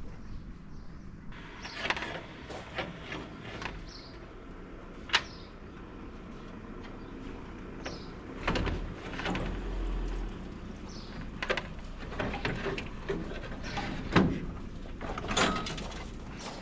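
Irregular clanks, knocks and scraping of hand work on a truck's radiator and its fittings as the radiator is taken out, with a sharp knock about five seconds in and another near the end.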